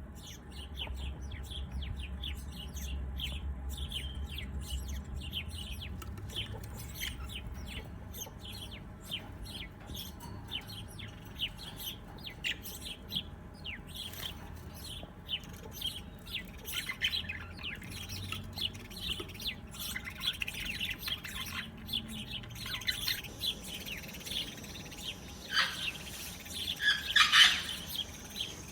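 Several small birds chirping: a steady run of short, quick chirps that grows busier and louder in the second half, loudest near the end.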